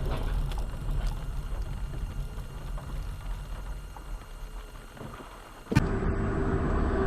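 Steady low rumble of a vehicle driving on the road, with a few faint knocks; about three-quarters of the way through it cuts abruptly with a click to a louder rumble.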